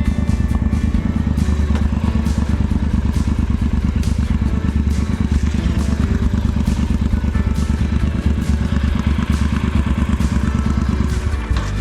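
Motorcycle engine running steadily while riding, its fast firing pulses loud and even, with background music underneath.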